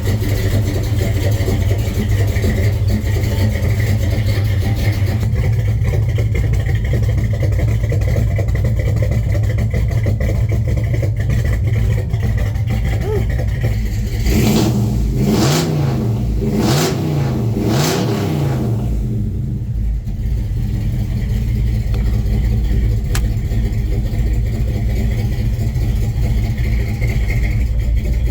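1970 Chevrolet Chevelle engine idling steadily, blipped up and back down four times in quick succession about halfway through, then settling back to idle.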